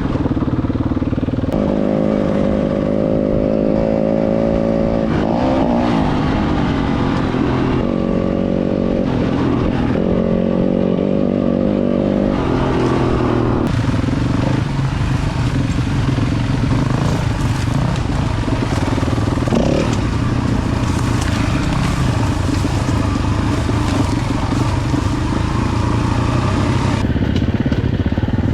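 Four-stroke single-cylinder dirt bike engine under way, its note held high, then rising and falling with throttle and gear changes. After about fourteen seconds it runs lower and rougher, with more rushing noise.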